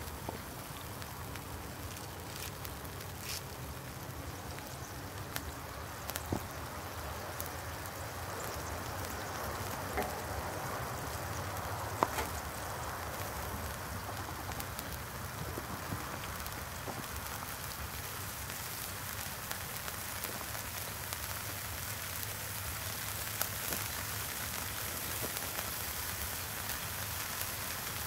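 Food frying in a pan, a steady sizzle with scattered pops and crackles, the sharpest about twelve seconds in.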